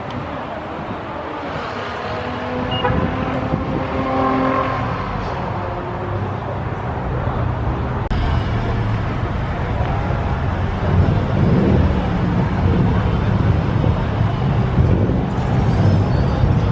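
Car engines running close by, a low rumble that gets louder about halfway through, with crowd voices underneath.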